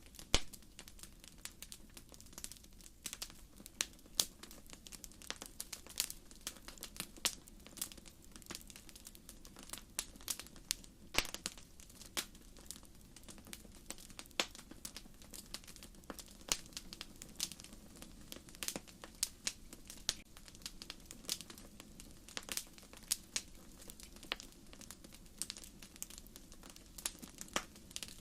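Wood fire crackling: irregular sharp pops and snaps of burning firewood, several a second, over a steady low hiss of the flames.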